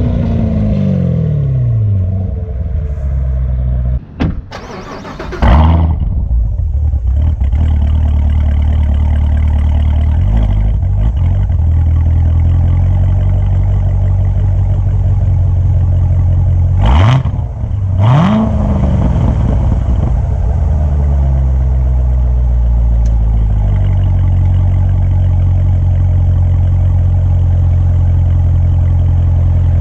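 2016 Corvette Z06's supercharged 6.2-litre V8 exhaust while driving. A rev falls away at the start, the sound drops briefly with a couple of sharp cracks around four to six seconds in, and then it settles into a steady low drone. Two quick throttle blips come around seventeen and eighteen seconds in, then it drones steadily again.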